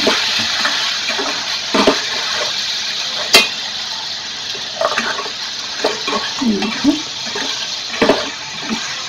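Chicken pieces frying in oil and masala in a steel pan, sizzling steadily while a spatula stirs them. The spatula knocks against the pan a few times, once sharply about three seconds in.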